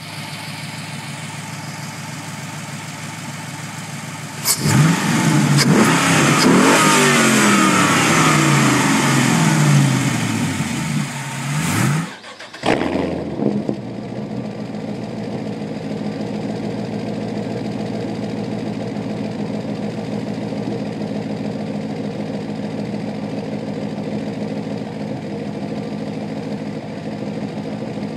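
2005 Pontiac GTO's LS2 V8 with its mufflers deleted and a K&N intake, idling, then revved hard about four and a half seconds in and held high for several seconds. A short blip follows near twelve seconds before it settles back to a steady, loud idle.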